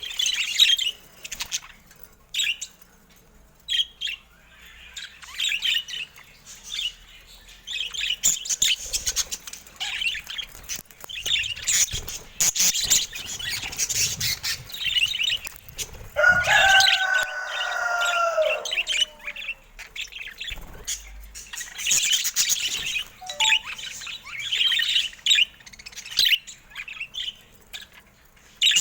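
Pet budgerigars chirping and chattering in bursts, mixed with short sharp clicks. About two-thirds of the way through, a louder, lower call slides down in pitch.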